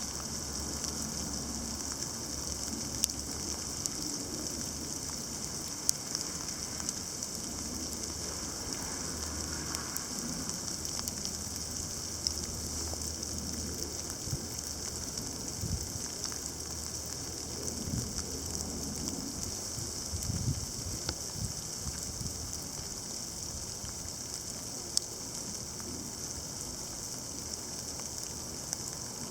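Sleet falling heavily, a steady hiss of ice pellets with scattered sharp ticks as individual pellets strike nearby surfaces. There is some low rumbling around the middle.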